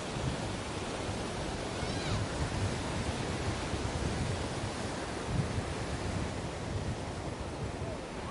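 Ocean surf washing onto a beach: a steady rushing of waves with no pauses. A faint, brief gliding call is heard about two seconds in.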